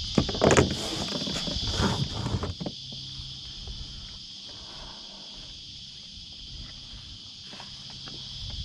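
Steady high-pitched chirring of insects. A few sharp knocks and rustles in the first two or three seconds, the loudest about half a second in, then only the insects.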